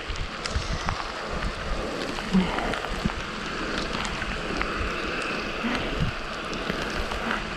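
Steady hiss of rain and wet-road noise during a bicycle ride, with wind buffeting the microphone in irregular low thumps.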